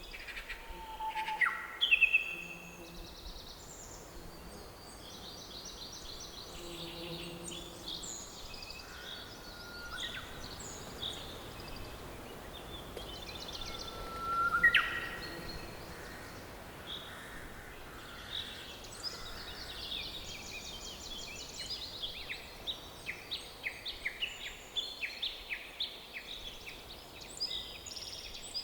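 Mixed forest birdsong: several birds chirping, whistling and trilling over a faint steady hiss, with a louder rising whistle at about two seconds and again near the middle, and dense rapid trills in the last third.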